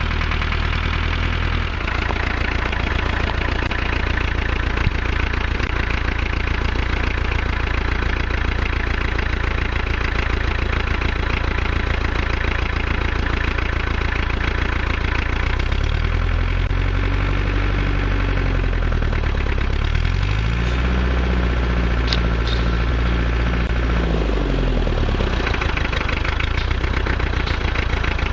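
International B-275 tractor's diesel engine running steadily, its revs rising and falling twice in the second half.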